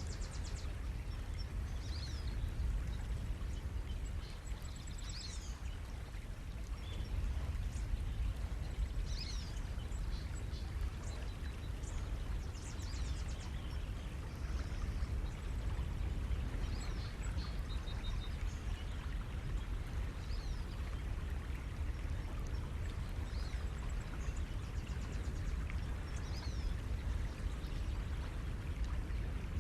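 Ocean surf washing on the shore as a steady low rumble, with many small birds chirping and trilling throughout.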